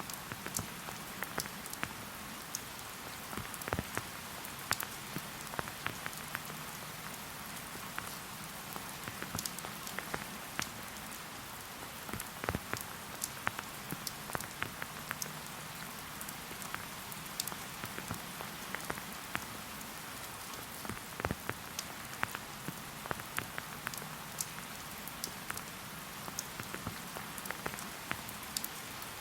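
Steady light rain falling, a soft even hiss with many separate drops ticking and pattering irregularly throughout.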